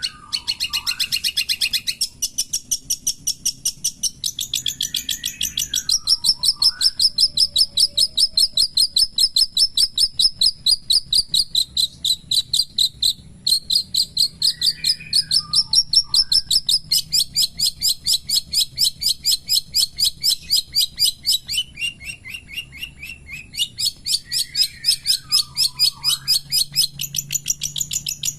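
Long-tailed shrike (cendet) singing: long, fast strings of sharp high chirps, about six a second, broken now and then by a few lower slurred notes.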